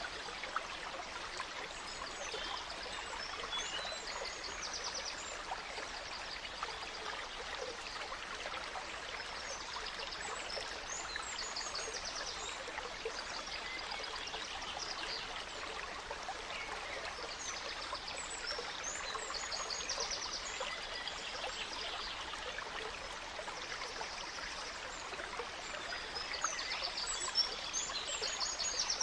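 A gently flowing stream trickling steadily, with forest birds singing over it in repeated short phrases of chirps and trills.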